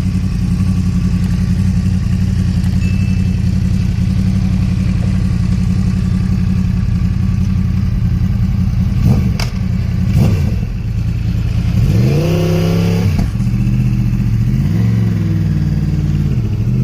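Superbike engine idling steadily, with two short throttle blips about nine and ten seconds in, then two longer revs that rise, hold briefly and fall back near the end.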